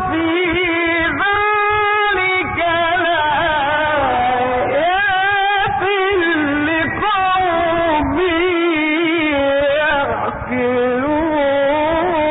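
A man's voice chanting Quran recitation in a slow melodic style, with long held notes that waver and ornament up and down. The sound is dull and narrow, from an old radio recording.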